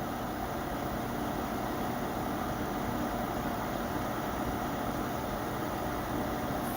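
Cooling fans of two EVGA GTX 670 FTW graphics cards in SLI running steadily under full benchmark load on automatic fan speed: an even whoosh with a faint steady hum.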